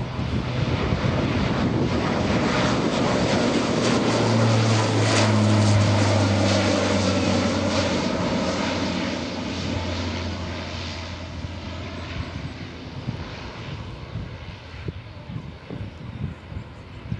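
Fixed-wing military aircraft flying overhead: a low engine drone with rushing noise grows to a peak about five seconds in, then fades away over the next ten seconds as the aircraft passes.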